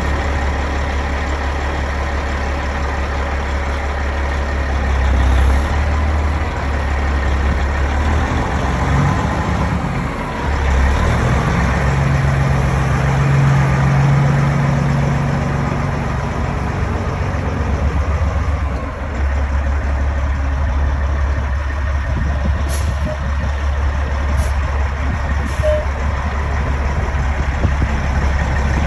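Peterbilt 389 semi truck's diesel engine idling with a steady low rumble, and three short high hisses near the end.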